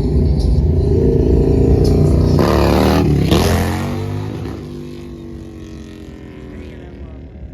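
A loud motor vehicle engine running hard as it passes close by, then its pitch drops and the sound fades away as it moves off.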